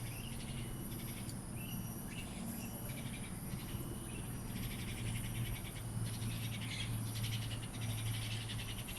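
Outdoor ambience of insects chirring in fast pulses, strongest in the second half, with a few short bird chirps about a second or two in, over a steady low hum.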